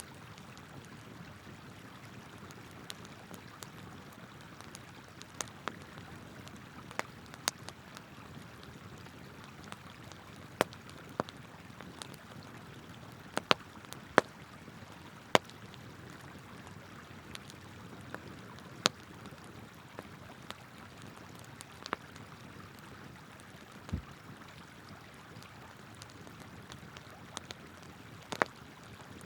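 Wood campfire crackling, with irregular sharp pops, over the steady rush of flowing river water. A single dull thump comes about two-thirds of the way through.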